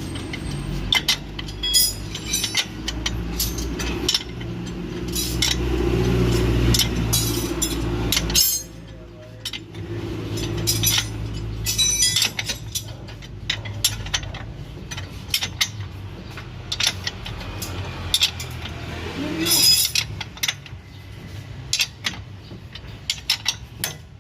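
Metal tools clinking and knocking against each other and against car parts, many short sharp clicks scattered throughout. A low steady machine hum runs under them and stops about eight and a half seconds in.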